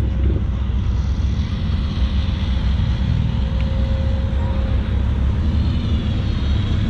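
Steady, loud vehicle engine noise with a constant low rumble.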